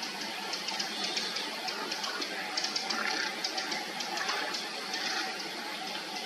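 Steady rush of flowing river water, with many small, crisp ticks and clicks over it, thickest around the middle.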